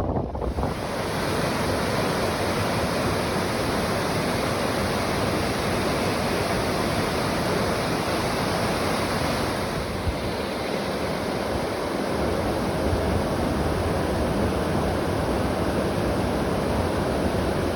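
Steady rushing of a high waterfall, with wind buffeting the microphone. The sound shifts slightly about ten seconds in.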